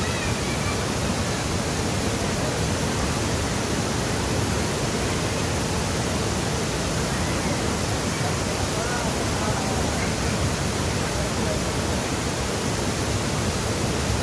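Waterfall rushing, a steady, even noise with no change in level, with faint voices in it now and then.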